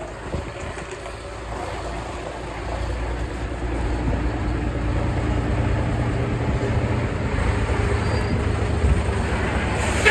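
A vehicle's engine and road noise while driving, a steady low rumble that builds over the first few seconds and then holds.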